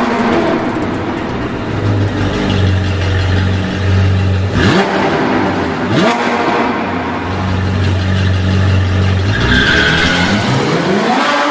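Range Rover Sport SVR's supercharged 5.0-litre V8 running at a steady idle, blipped twice in quick rev spikes about four and six seconds in, then a longer, steady climb in revs near the end.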